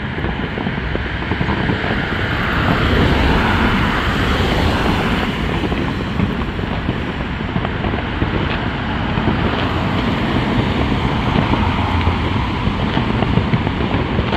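Wind rushing over the microphone, a steady noise that swells for a few seconds near the start, with a few faint distant firework cracks in the second half.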